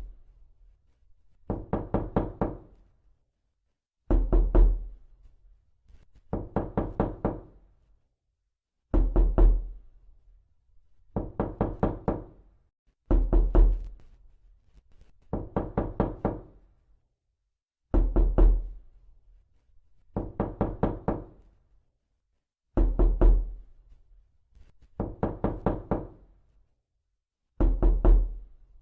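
Repeated knocking: quick bursts of several raps about every two and a half seconds, alternating between a heavier, deeper burst and a lighter one.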